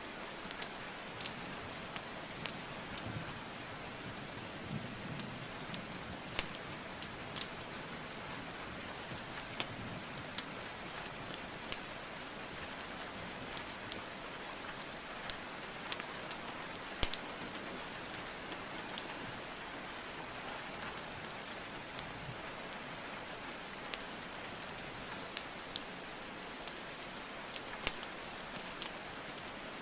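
Steady rain with sharp, irregular crackles and pops of burning logs in a fireplace scattered over it.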